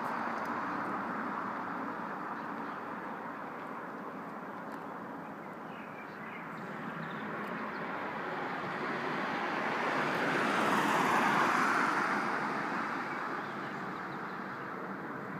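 Airbus A380 four-engine jet airliner passing overhead: a steady engine rush that swells to its loudest about eleven seconds in, then fades.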